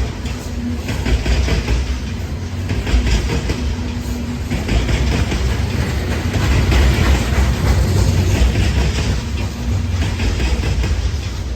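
Norfolk Southern freight train cars rolling past, a steady heavy rumble with the clickety-clack of wheels over the rail joints.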